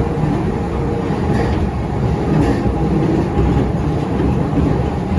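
Running noise of a JR East E531 series electric multiple unit heard from inside the passenger car: a loud, steady noise of wheels on rail as the train travels at speed through a tunnel.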